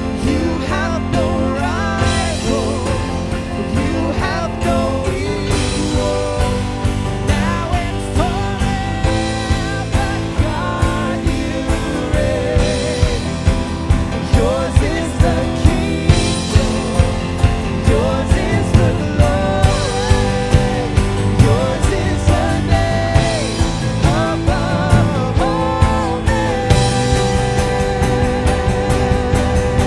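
Live worship band playing an instrumental passage: a wavering lead melody over bass, with a steady drum beat that comes in about halfway through.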